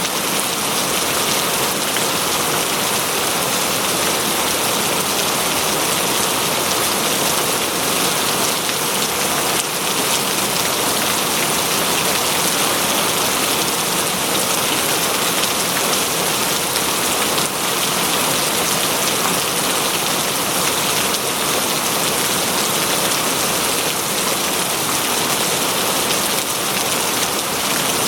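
Steady heavy rain falling on foliage and the ground, a dense even hiss with the patter of individual drops.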